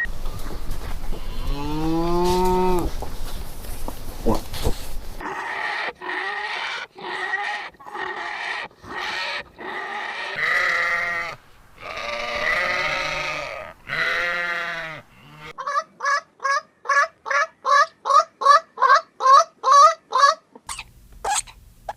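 Bleating livestock: after a noisy stretch with one falling call, a series of separate bleats each lasting up to about a second, then a quick run of short calls at about three a second.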